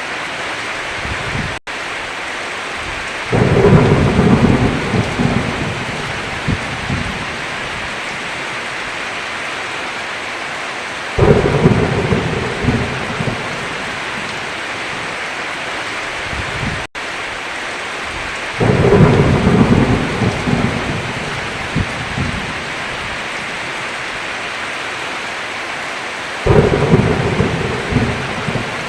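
Heavy rain hissing steadily, with four rolls of thunder about seven to eight seconds apart. Each roll starts suddenly and rumbles for a couple of seconds before fading back into the rain. The sound cuts out for an instant twice.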